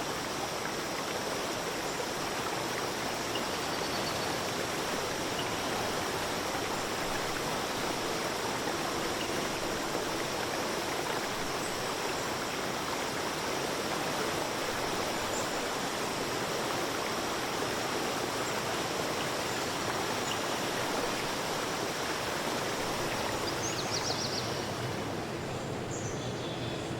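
Steady rush of a flowing stream, with a few faint high bird chirps near the end.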